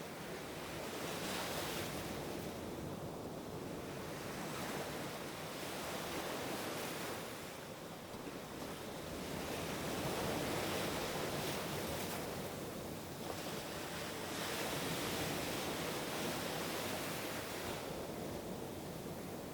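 Ocean surf: waves washing in and drawing back, a steady rushing noise that swells and eases every few seconds.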